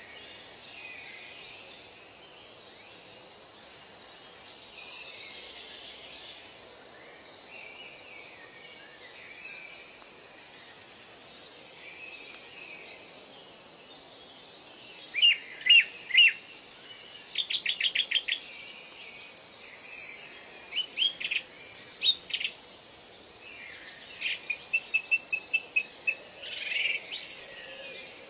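Birds calling over a steady background hiss. The first half holds only faint, distant twittering. From about halfway, louder birds join in: three sharp notes, a quick run of notes, scattered calls, and an even trill near the end.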